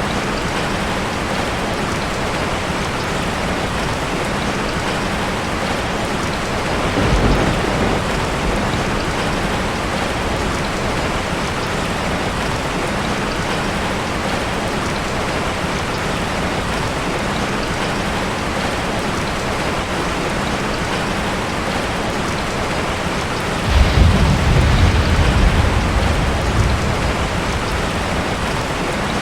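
Heavy rain drumming steadily on a tin roof, with two rolls of thunder: a short low rumble about a quarter of the way in and a louder, longer one near the end.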